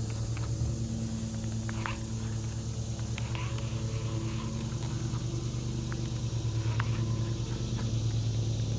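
Boat motor running steadily with a low, even hum, and a few faint ticks over it.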